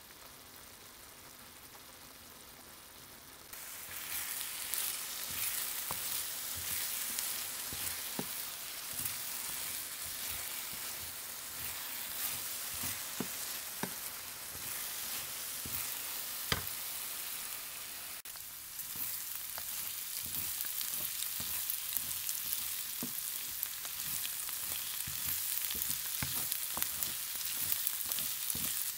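Chopped mushrooms frying in a pan, hissing quietly at first and then jumping suddenly to a loud, steady sizzle a few seconds in, as the liquid they have released boils off in steam. A wooden spoon stirs them, with scattered knocks and scrapes against the pan.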